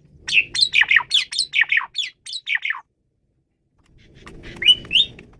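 Asian pied starling (jalak suren) singing: a fast run of about a dozen short, sharp falling notes, a pause of about a second, then two rising whistles near the end.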